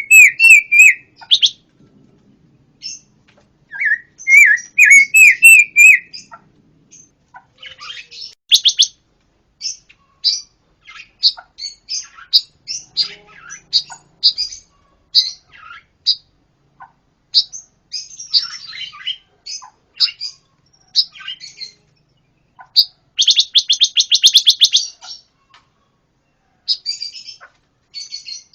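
A pancawarna songbird singing busily and loudly: warbled phrases at first, then strings of sharp high chips with short pauses, and a fast rattling trill near the end.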